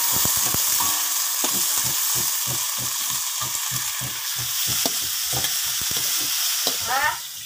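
Chopped vegetables frying in hot oil in a wok, a steady sizzle, with a spatula stirring in even strokes about three times a second.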